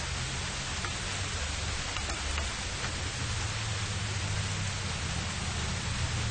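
Steady rain hissing over the low rumble of light city traffic, with a few faint ticks of single drops.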